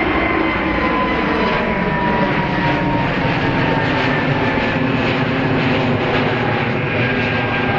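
Fixed-wing aircraft engines running loud and steady, a rushing roar with a whine that slowly falls in pitch.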